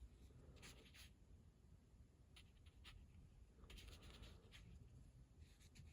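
Faint strokes of a wet watercolour brush across paper, a few soft scratchy sweeps in short groups.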